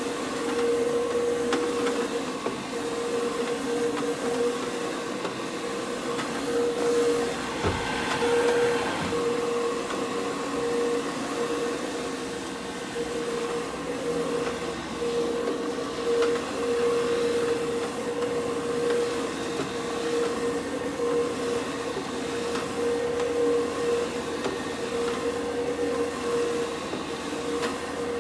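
Counter-rotating brush (CRB) carpet scrubbing machine running, its motor giving a steady hum that wavers slightly as the brushes scrub the carpet.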